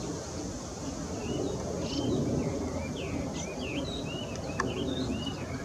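Strong wind rumbling on the microphone, with a small songbird singing a quick run of short, varied whistled notes over it from about a second in. Two faint sharp clicks come near the end.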